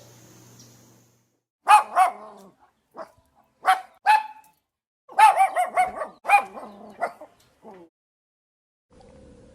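A dog barking in short, high-pitched barks: single barks at first, then a quick run of barks about five seconds in, and a few more before it stops.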